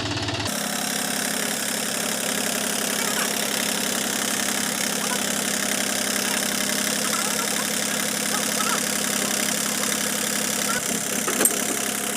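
John Deere tractor engine running steadily, with an abrupt change in the sound about half a second in and a single sharp click near the end.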